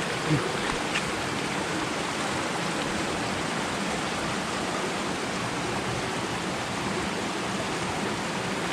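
Steady rush of waterfall and creek water gushing down into a rock pool.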